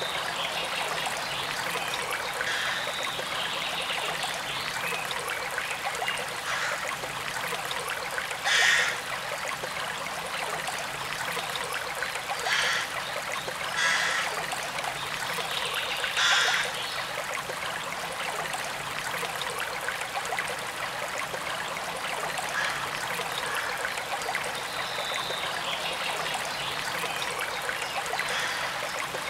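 A forest stream trickling and running steadily, with a few brief louder splashy moments between about 9 and 17 seconds in.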